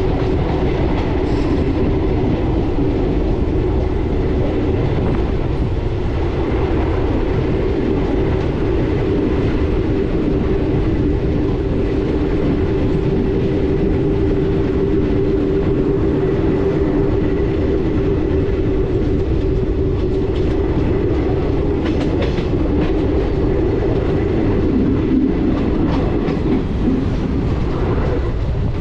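Express passenger train running at speed, heard from on board: a steady rumble and hum, with clicks of the wheels over rail joints in the later part.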